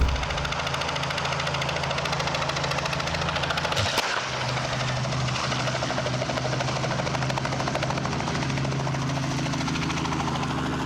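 Helicopter rotor and turbine engine running steadily, with rapid even rotor-blade beating and a low steady hum. There is a sharp click about four seconds in.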